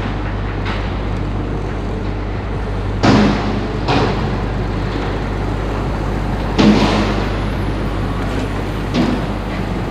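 Steady low rumble of wind and road noise on a moving bicycle, broken by sudden jolts: four clattering knocks about three, four, six and a half and nine seconds in.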